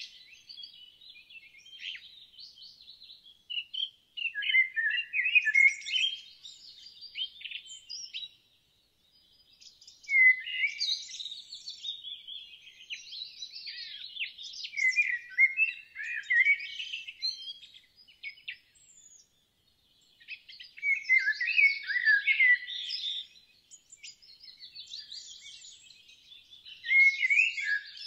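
Songbirds singing in quick, warbling, chirping phrases, each a few seconds long, with short pauses between them.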